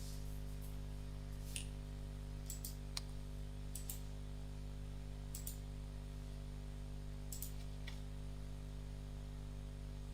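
Computer mouse clicking: about nine single clicks at irregular intervals, over a steady low hum.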